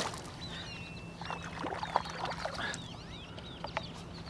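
Small birds calling repeatedly: many short chirps that rise and fall in pitch. A few sharp knocks and clicks sound against the kayak's hull and gear, the loudest about two seconds in.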